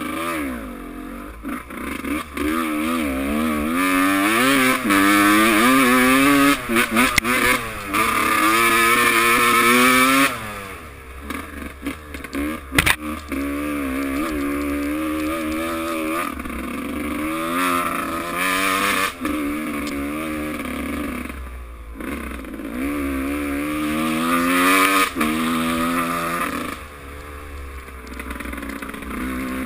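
Motocross bike engines revving hard, their pitch climbing and dropping again and again with throttle and gear changes. A single sharp crack comes about thirteen seconds in.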